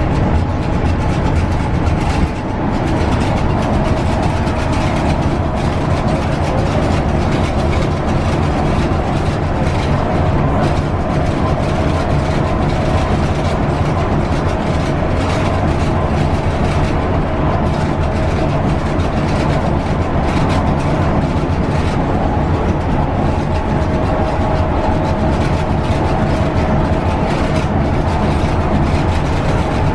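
Scania K320UB bus running at a steady cruise along the O-Bahn guided busway: a constant engine drone and tyre roar on the concrete guideway, with a steady whine laid over them.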